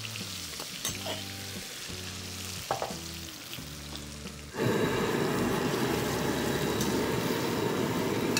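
Gram-flour-coated cauliflower florets frying in hot ghee in a steel kadai, sizzling, with a few clinks of a perforated ladle against the pan over soft background music. About halfway through, a louder, steady rushing noise starts abruptly and covers the rest.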